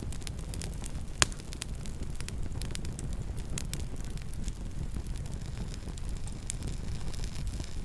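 Campfire burning, a steady low rumble of flame with scattered crackles and pops, and one loud snap about a second in.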